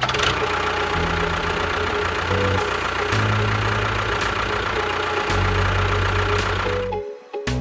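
A small motor or engine running steadily, with a rough, noisy sound, stopping about seven seconds in. The bass of background music carries on beneath it.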